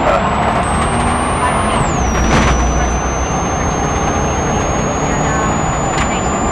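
Steady vehicle noise: a constant rushing hiss over a low rumble, with a faint high whine that drops in pitch about two seconds in.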